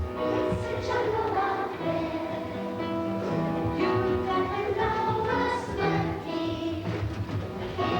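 A group of children singing a song over musical accompaniment, in a series of held notes.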